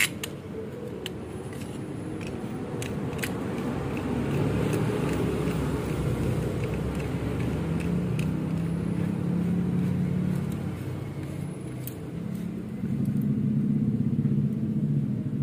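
A motor vehicle engine running nearby with a low rumble that swells and eases over several seconds, with a few light metallic clicks.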